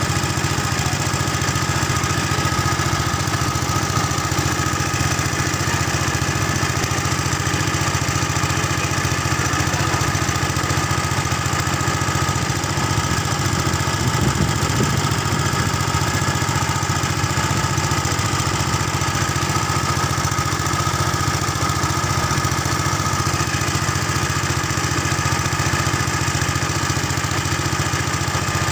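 An engine running steadily at an even speed, loud and unchanging, with no revving.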